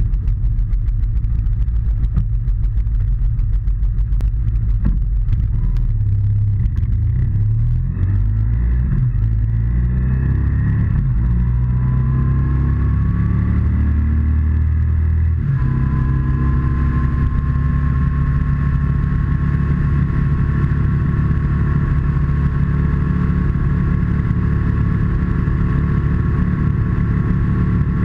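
BMW R1200C boxer-twin motorcycle engine running on the road. Its pitch rises as the bike accelerates, changes suddenly about fifteen seconds in like a gear change, and then holds steady at cruising speed.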